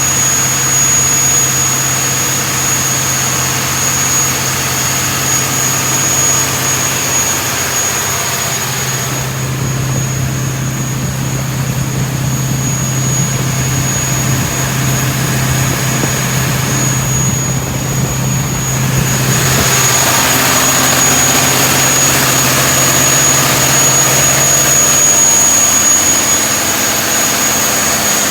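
Scania engine running steadily on test, with a constant high-pitched whine over it; its low note changes about twenty seconds in.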